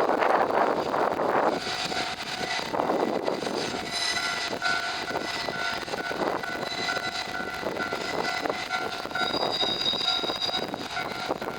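Freight train hauled by a DD51 diesel-hydraulic locomotive running past, a steady noise of wheels on rails that swells every couple of seconds, with thin high-pitched tones ringing over it.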